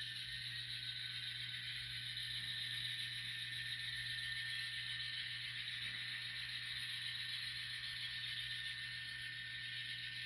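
N scale model locomotive running on track: a steady whine of the small motor and gears with a hiss of wheels on rail. The motor's pitch rises just as it starts and then holds steady.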